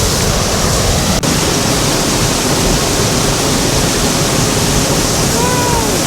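Steady, loud rushing of a waterfall close by: Black Fork Falls, a seasonal waterfall, running full after rain. The sound briefly drops out about a second in.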